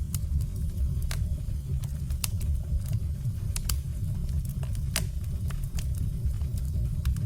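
Wood fire burning: a steady low rumble with scattered sharp crackles and pops of burning logs.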